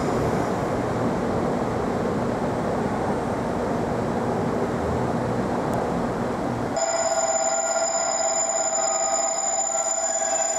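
JR Kyushu 787 series limited express train pulling slowly into the station platform, a steady rumble of wheels and running gear. About seven seconds in, the sound cuts abruptly to a steady electronic ringing tone, held on several pitches at once.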